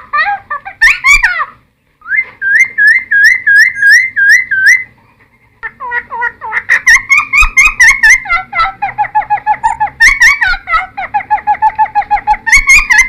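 Cucak timor (friarbird) singing loudly. A run of about eight repeated rising whistled notes is followed by a short pause. Then comes a long, fast, chattering series of notes alternating between a higher and a lower pitch.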